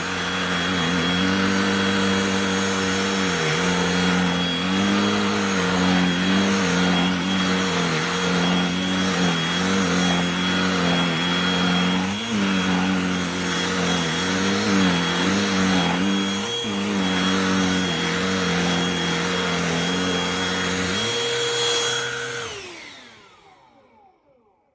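Cordless handheld vacuum running, its motor pitch dipping and recovering now and then as it is worked over a surface. About 22 seconds in it is switched off and winds down to silence.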